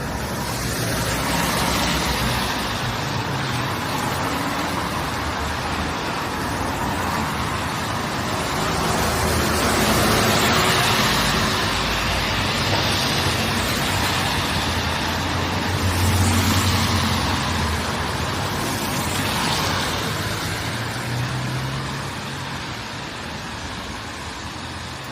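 Road traffic: cars and heavier vehicles passing close by one after another, with a steady rushing of tyres and engines that swells and fades several times.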